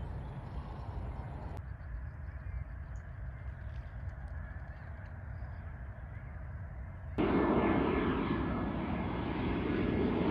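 Jet airliner engine noise: a low steady rumble that thins abruptly about one and a half seconds in, then a much louder jet rush cuts in suddenly about seven seconds in.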